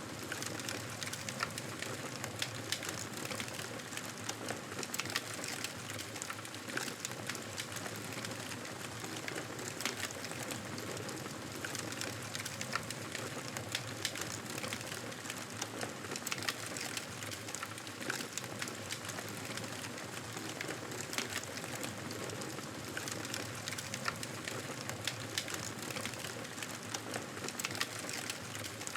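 Wood fire crackling in a fireplace: a steady hiss with many small irregular pops and snaps.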